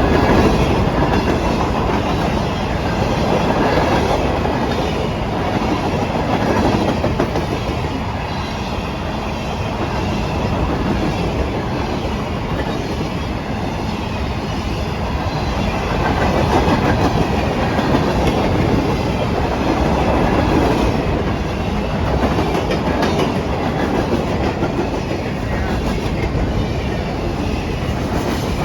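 Wheeling & Lake Erie freight train's cars rolling past close by at speed: a steady, loud rumble of wheels on rail with clickety-clack from the rail joints, swelling and easing as the cars go by.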